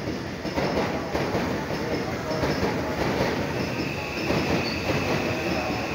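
Electric train running along the platform track: steady rolling and wheel noise, with a steady high-pitched whine joining about three and a half seconds in.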